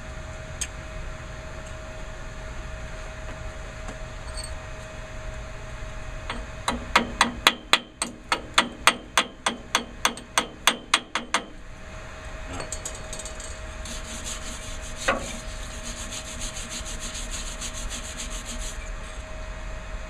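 Hammer striking a fresh weld on the Ford 8N tractor's hydraulic housing, chipping it clean: about twenty quick metal strikes, about four a second, starting about seven seconds in. A few seconds later comes a run of rapid fine scraping on the metal.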